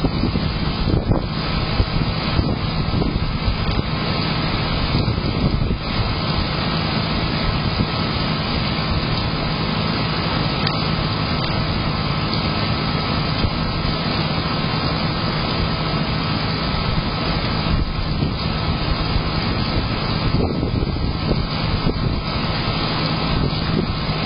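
Steady storm noise of rain and wind on a Blink security camera's small microphone, with a steady low hum underneath.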